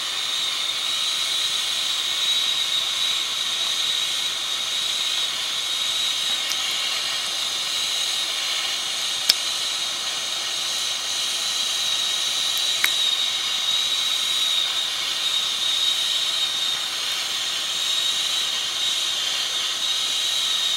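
Steady high-pitched whistling hiss from a CO2 delivery truck pumping liquid CO2 into a bulk storage tank. A single thin whistle tone holds steady over the hiss, with a couple of faint clicks partway through.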